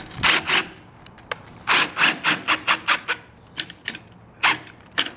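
A ratchet wrench working the chain tensioner on a garage door opener's drive chain as the chain tension is adjusted. It makes short rasping ratcheting strokes in irregular runs, several a second, with brief pauses between.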